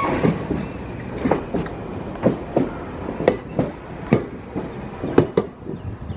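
Train rolling slowly past, its wheels clacking over the track joints in pairs about once a second over a steady rumble. A faint high wheel squeal comes in near the end.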